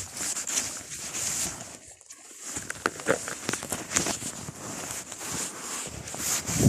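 Rustling and crunching of dry leaves, twigs and brush being worked through, with many irregular clicks and snaps.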